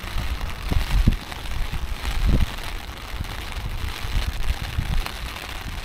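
Steady rain hissing down around an umbrella held overhead, with irregular low thumps and rumbles over it.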